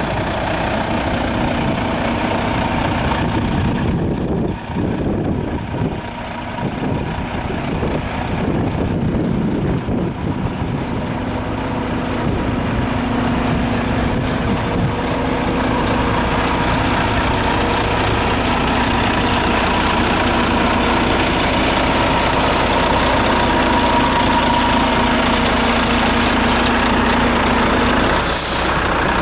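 Volvo FH12 480 tractor unit's 12-litre six-cylinder diesel engine idling steadily, with a short hiss near the end.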